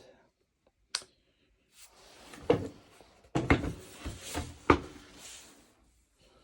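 Hand sanding of a wooden guitar body with fine-grit sandpaper: a scratchy hiss of the paper with several sharp knocks. A single click comes about a second in.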